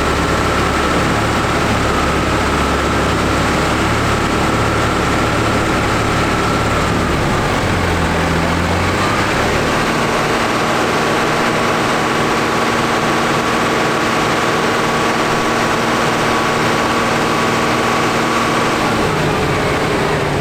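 John Deere 7800 tractor's diesel engine running loud and steady on a PTO dynamometer, with a steady high whine over it. About eight seconds in, the deep low note drops away and the pitch shifts, then holds steady again.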